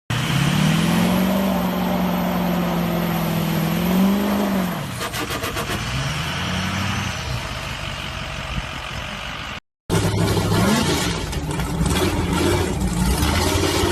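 Truck engine running and revving, its pitch climbing and then falling away; after an abrupt cut a second engine revs up and down.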